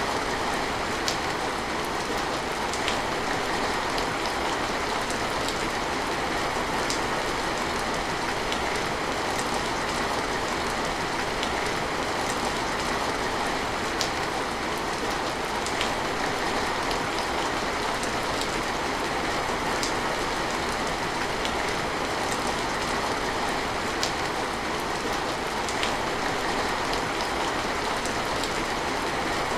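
Steady rain falling and pattering on a surface, with scattered drop ticks through a dense, even hiss.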